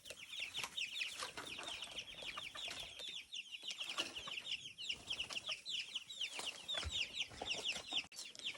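A flock of chicks peeping continuously, a dense chatter of many short, high, falling peeps overlapping one another.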